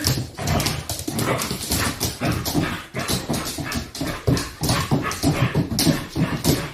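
A dog vocalizing in a rapid, continuous string of short sounds, about three or four a second, with no pause.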